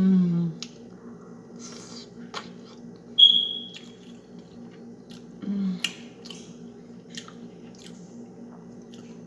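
Close-up chewing and mouth clicks as a boiled potato is eaten, with two short low voiced hums, one at the start and one about five and a half seconds in. A brief high ring about three seconds in is the loudest moment, over a steady low background hum.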